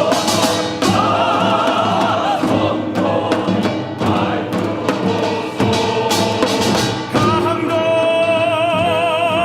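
A choir singing with orchestral accompaniment and sharp percussion strikes; near the end a single voice enters, held with a strong vibrato.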